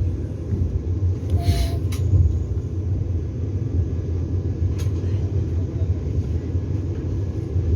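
Steady low rumble of a Vande Bharat Express train running on the rails, heard inside the passenger coach. A brief hiss comes about a second and a half in.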